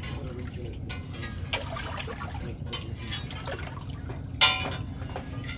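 A steady low hum with scattered small clicks and drips, and one loud, sharp knock that rings briefly about four and a half seconds in.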